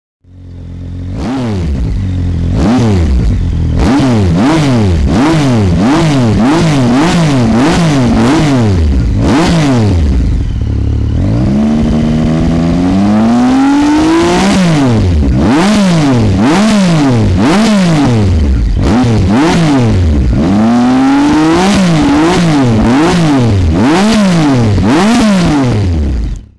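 Triumph Speed Triple 1050 R's inline three-cylinder engine breathing through a GPR dual exhaust, revved over and over in quick throttle blips. Twice, about midway and again later, it climbs higher and for longer before falling back. The sound cuts off suddenly at the end.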